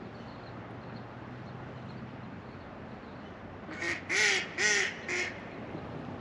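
Steady rush of river water, with a duck quacking four times in quick succession about four seconds in.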